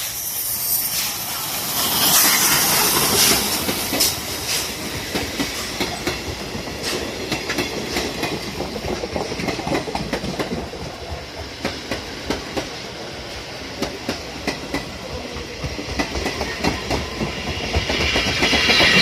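A train running past, its wheels clattering over the rail joints in many quick clicks over a steady rumble. It gets louder a couple of seconds in and again near the end.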